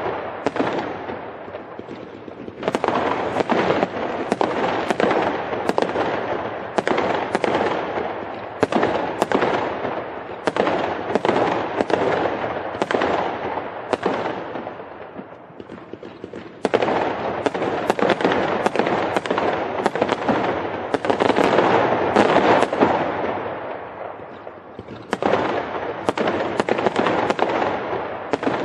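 Fireworks going off in quick succession: sharp bangs over a dense crackle, each echoing away, with a few brief lulls.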